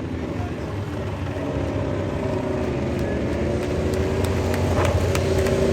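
Racing motorcycle engines running at speed around the circuit, getting gradually louder toward the end.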